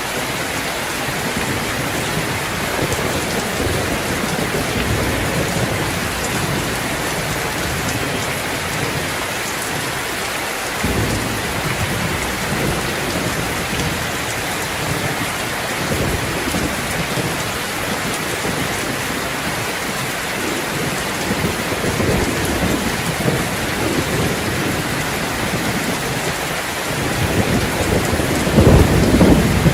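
Steady rain falling on a terrace, with low rolls of thunder rising in a few times; the loudest rumble comes near the end.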